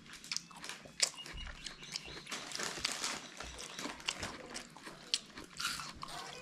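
Juicy watermelon being chewed close to the microphone: irregular wet crunches, slurps and lip smacks.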